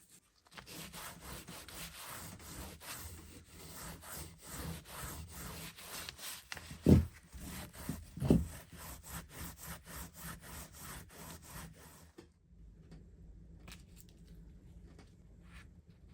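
Steel axe head being burnished: rhythmic back-and-forth rubbing strokes, about two a second, with two louder thumps partway through. The rubbing stops about twelve seconds in, leaving a faint hum and a few clicks.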